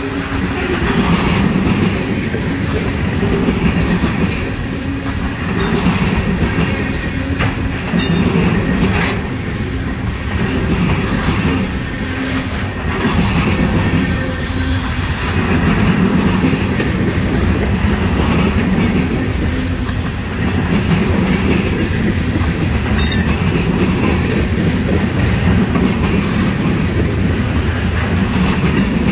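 Loaded trash-train freight cars rolling past close by: a steady, loud rumble of steel wheels on rail, with the clickety-clack of wheels passing over rail joints.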